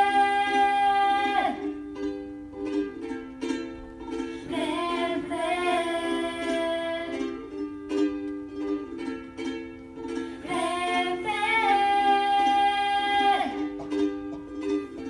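A woman singing to her own strummed ukulele: three long sung phrases, each ending on a held note, with the ukulele chords running on alone in the gaps between them.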